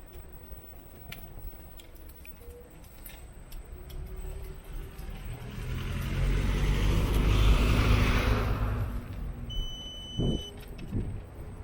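A motor vehicle passing close by, its engine and tyre noise building up, peaking about two-thirds of the way in and fading. Near the end there is a short, steady high beep and a couple of knocks.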